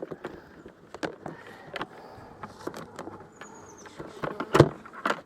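Parts of an insulated plastic beehive being fitted back together as the hive is closed: irregular clicks and knocks, a brief high squeak a little past the middle, and a louder knock near the end.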